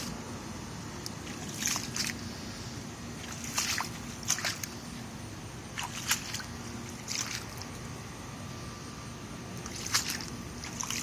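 Footsteps wading through ankle-deep floodwater, each step a splashing slosh, unevenly spaced about every one to two seconds.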